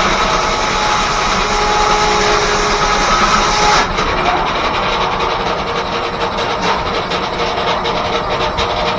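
Steam-engine-driven sawmill running: a loud broad hiss with faint steady whining tones cuts off suddenly about four seconds in, leaving a rapid, even beat from the machinery.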